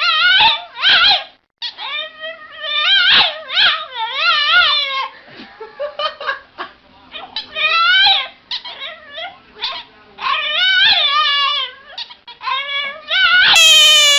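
A dog making a long series of short, wavering, high-pitched vocal calls that bend up and down in pitch, with brief gaps between them. Near the end, a louder, sustained cry with slowly falling pitch cuts in.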